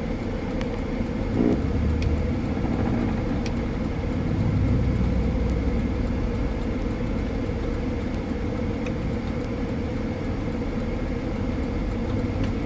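Car running in traffic, heard from inside the cabin: a steady hum of engine and road noise, with a few faint clicks.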